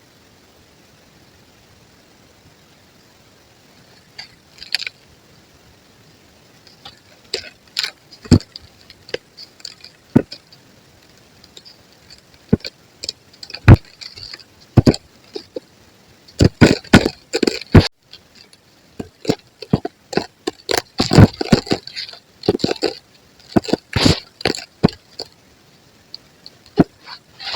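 Soft white ASMR 'concrete' being crushed and crumbled by hand, giving irregular crunches and sharp cracks. They begin about four seconds in and come thicker and faster toward the end.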